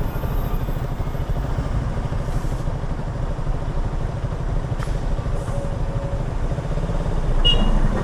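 Motorcycle engine running with a steady low rumble, from the rider's single-cylinder Yamaha R15 V3.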